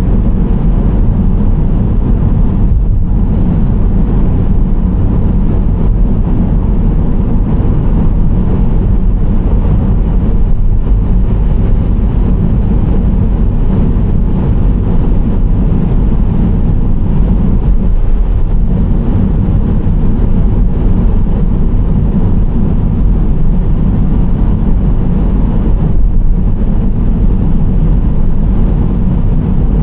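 Steady drone of a moving Nissan Serena C25 minivan: low road rumble and engine hum that holds level throughout.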